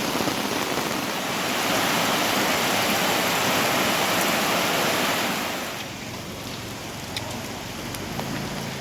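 Floodwater rushing in a swollen stream: a steady, even hiss of water that drops off noticeably about five and a half seconds in, with a few faint ticks near the end.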